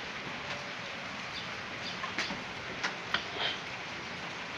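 Steady hiss of rain, with scattered sharp ticks of drips, the loudest about two to three seconds in, and a few short high chirps.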